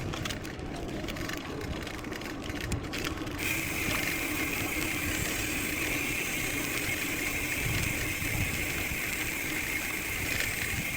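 Mountain bike rolling over a trail, with knocks and rattles from bumps. About three seconds in, a steady high-pitched buzz starts abruptly and holds on.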